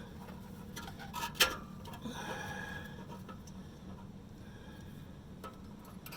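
Light metallic clicks and taps of hand tools working exhaust hardware, with one sharper knock about a second and a half in, over a steady low hum.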